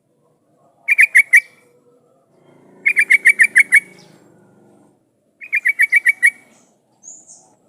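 Yellow-vented bulbul (trucukan) song: three bursts of rapid, evenly paced chirping notes, about four notes in the first and seven in each of the next two, with short pauses between.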